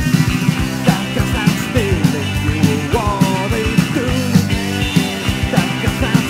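Hard-rock trio playing an instrumental passage: electric guitar lead with bending notes over driving drums and bass.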